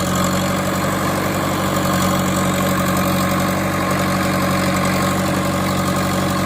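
Heavy diesel engine running steadily at idle, an even, unchanging drone.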